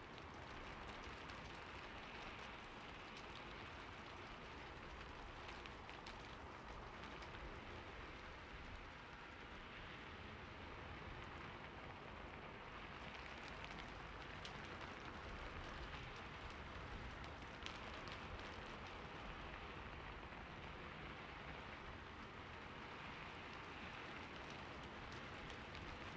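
Steady rain falling on a roof, a soft even hiss with scattered individual drop ticks.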